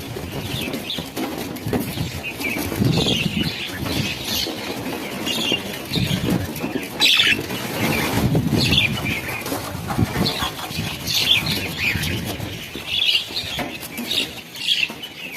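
A large flock of birds flying close by, its massed wingbeats making a continuous fluttering whirr, with many short, high chirping calls scattered through it.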